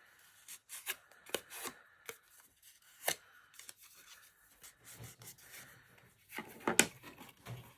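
Cardstock pieces being handled and pressed into place on a work surface: scattered light taps and clicks, with a louder run of knocks near the end.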